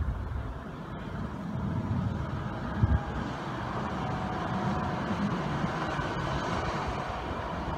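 c2c Class 357 Electrostar electric multiple unit running past, a steady rumble of wheels on the track with a faint whine, and one louder knock about three seconds in.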